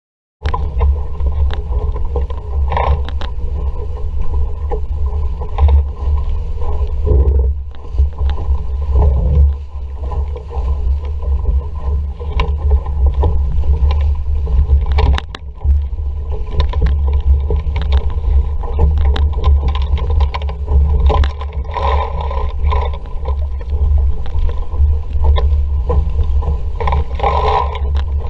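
Sailing dinghy under way in a strong breeze: wind buffeting the boat-mounted microphone with a heavy rumble, over water rushing along the hull, with frequent short knocks and slaps.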